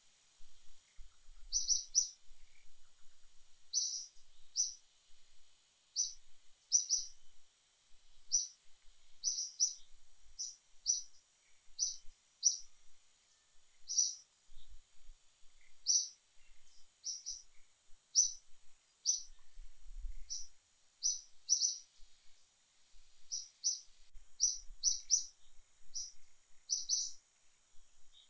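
A bird calling with short, high chirps, repeated irregularly and often in quick pairs, roughly one or two a second, over a faint steady high hiss.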